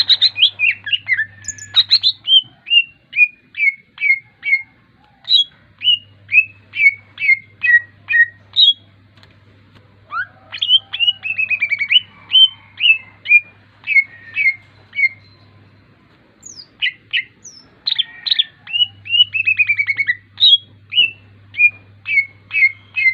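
A green songbird singing a long series of short, sharp, down-slurred whistled notes at about two a second, broken twice by quick rattling trills and two short pauses. A faint low hum comes and goes underneath.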